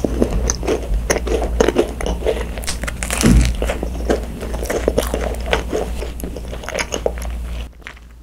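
Close-miked biting and chewing of a grape-filled fat macaron: the crisp shell crunches and crackles between wet, sticky mouth sounds, with the loudest bite about three seconds in. The chewing dies down shortly before the end.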